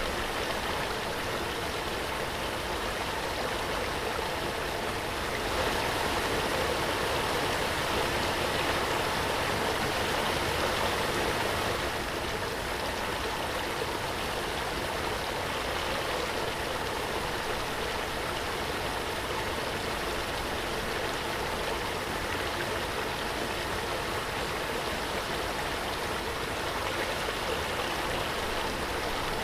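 Waterfall: a steady rush of falling water, swelling slightly for a few seconds about a quarter of the way in.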